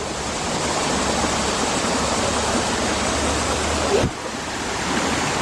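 River water rushing steadily over rocks, loud and close. A brief knock about four seconds in.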